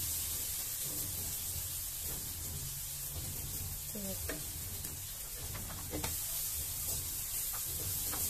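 Blended chili paste sizzling steadily in a wok over a gas flame while a wooden spatula stirs and scrapes it, knocking against the pan a few times.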